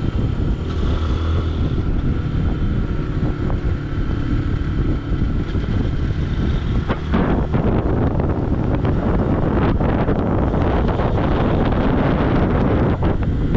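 Single-cylinder dual-sport motorcycle engine running under way, with wind buffeting the microphone. The noise gets denser and a little louder from about halfway.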